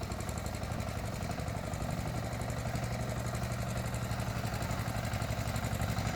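Small engine of a 4WD mini wheeled farm tractor running steadily, with an even, rapid pulsing.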